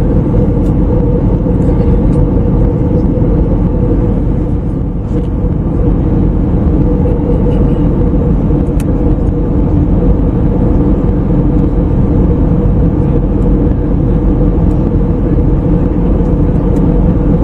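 Steady in-flight cabin noise of an Airbus A321neo, a dense even drone of engine and airflow with a steady hum running through it.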